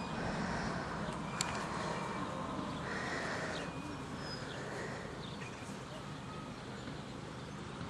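Outdoor background noise with a few faint, short high bird chirps scattered through it and a single light tick about a second and a half in.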